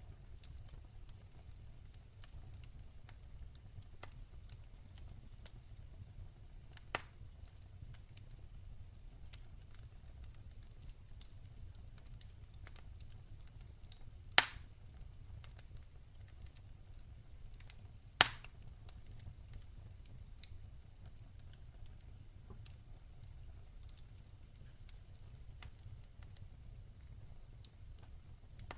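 Campfire crackling: a steady run of small faint crackles over a low rumble, with a sharp pop about a quarter of the way in and two loud pops, one around the middle and one about two-thirds through.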